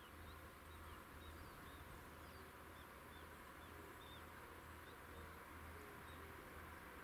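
Faint small-bird chirps, short high calls repeating a couple of times a second, over a low steady background hum.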